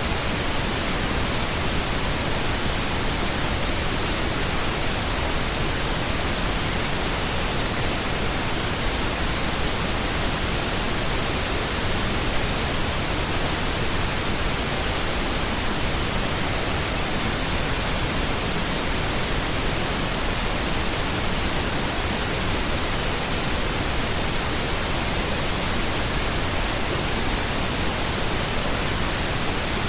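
Steady, unchanging pink noise: an even hiss with no events or variation.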